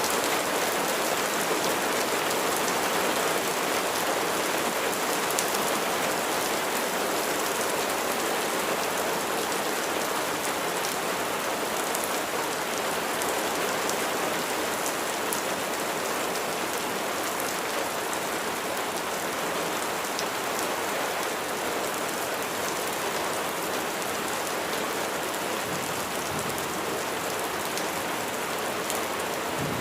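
Steady rain falling, an even hiss with scattered raindrop ticks.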